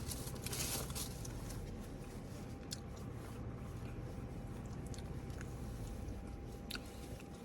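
A person chewing boiled yak meat, with a few small clicks, over a steady low rumble.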